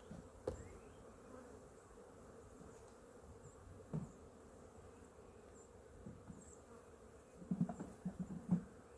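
Honeybees buzzing steadily around an open hive. A few short knocks sound over the buzzing, with a quick run of louder ones near the end.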